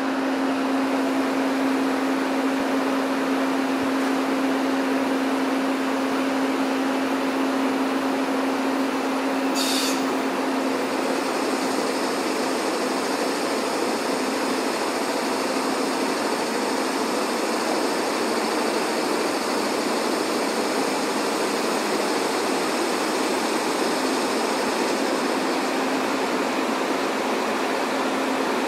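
Train passing on the tracks, a steady rushing rumble of wheels on rail. A low steady hum fades out about ten seconds in, and a faint high-pitched whine runs through the middle part.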